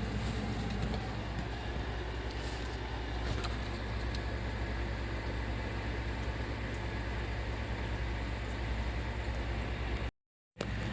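A steady low mechanical hum, broken by a short drop to silence about ten seconds in.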